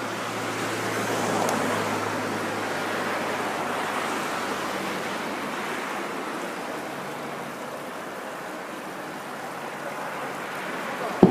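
Steady wash of surf breaking on a beach, ending with one sharp firework bang near the end.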